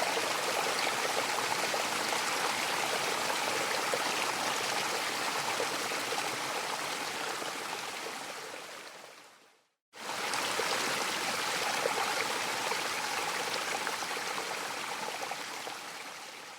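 Rushing water of a mountain waterfall, a steady full-range hiss. It fades out to silence about ten seconds in, cuts straight back in, and fades away again near the end.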